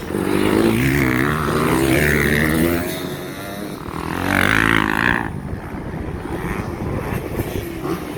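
Motocross bikes passing at full throttle, the engines revving up and down through gear changes. Loudest for the first three seconds and again from about four to five seconds in.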